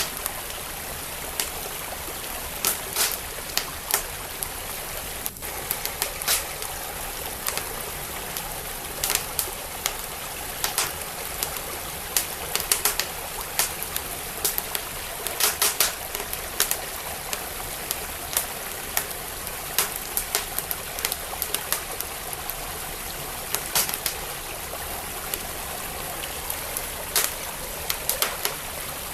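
Wood fire crackling with irregular sharp pops and snaps, over the steady rush of a flowing stream.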